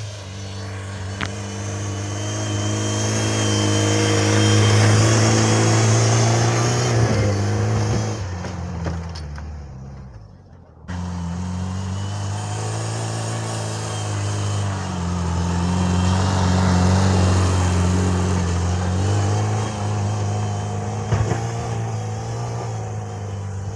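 Homemade mini tractor's engine running under load while clearing snow, its pitch sagging and recovering as the load changes. The sound fades out and comes back abruptly about eleven seconds in.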